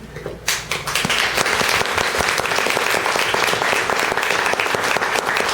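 Audience applauding, many hands clapping at once; it breaks out about half a second in after a brief hush.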